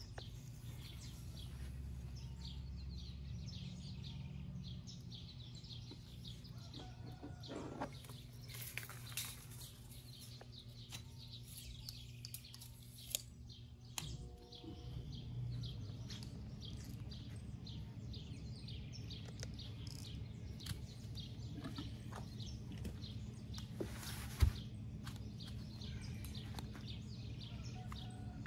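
Birds chirping against a steady low hum, with a few faint clicks and one sharper tap late on.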